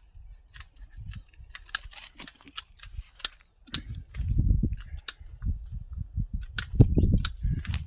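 Irregular sharp clicks and snaps, a dozen or more, over a low rumble that swells twice in the second half.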